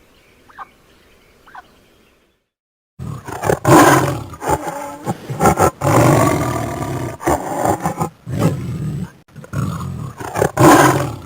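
Faint short chirps, then after a brief silence about three seconds in, a big cat roaring in several loud, rough bursts.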